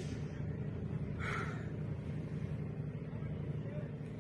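A car's engine running, heard as a steady low drone inside the cabin, with one short brighter sound about a second in.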